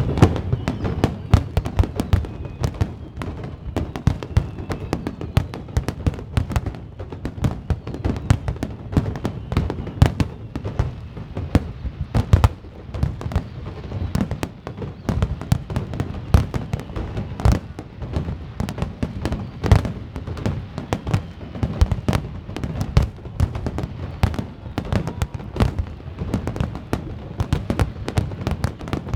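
Fireworks display: a dense, continuous barrage of shell bursts, with many bangs and booms a second overlapping throughout.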